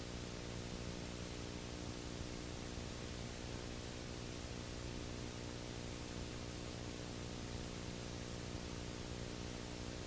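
Steady hiss with a low electrical hum underneath: the recording's own background noise, with no other sound.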